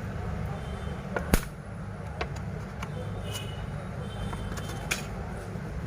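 Steady low rumble of street traffic in the background, with a few sharp clicks and taps, the loudest about a second and a half in and smaller ones later.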